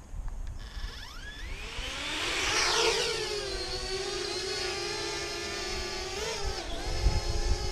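Parrot Bebop 2 quadcopter's four propeller motors spinning up for takeoff: a whine rising in pitch over about two seconds, then settling into a steady hovering whir, with a brief wobble in pitch near the end.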